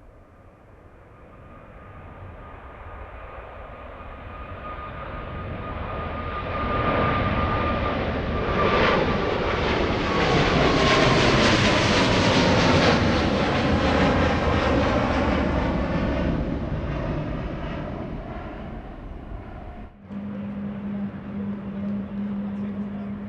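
Jet airliner passing close by: its engine noise builds up, is loudest about halfway through and fades, with a high whine that drops in pitch as it goes past. Near the end the sound cuts abruptly to a different, steady low hum.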